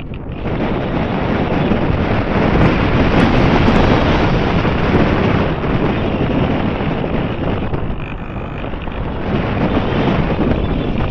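Wind buffeting the microphone: a steady low rumble that swells and eases in gusts, loudest a few seconds in and easing a little near the end.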